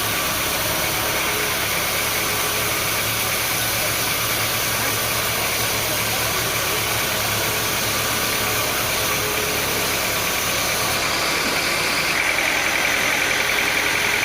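Sawmill machinery running steadily with an engine drone; about two seconds before the end a higher-pitched whine grows stronger and the sound gets a little louder.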